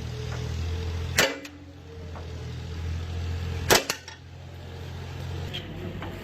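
Two sharp hammer blows on metal, about two and a half seconds apart, each with a brief ring, over a steady low machinery hum that fades near the end.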